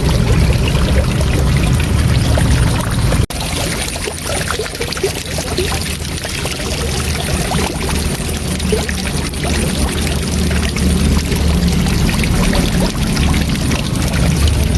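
Waterfall: a steady, loud rush of falling water, with a momentary break about three seconds in, after which the low rumble is a little weaker.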